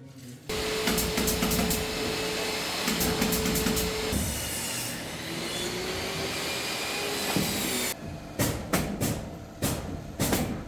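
A power tool runs loudly for about seven seconds, its steady whine shifting pitch about halfway through, during ceiling carpentry work. It is followed by a quick series of sharp knocks.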